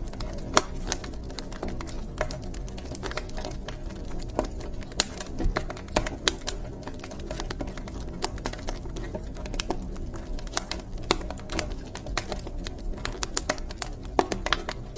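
Wood fire in a fireplace crackling: irregular sharp snaps and pops, some much louder than others, over a low steady rumble of the burning.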